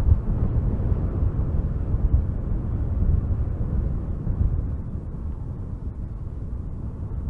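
Strong wind gusting through spruce trees: a low, rushing rumble that swells and eases, loudest in the first couple of seconds and dropping somewhat past the middle.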